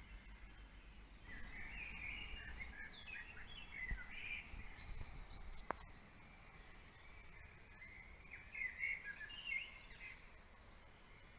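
Songbirds singing faintly in the morning: two bursts of quick, varied twittering, one from about a second in to about five seconds and another near the end.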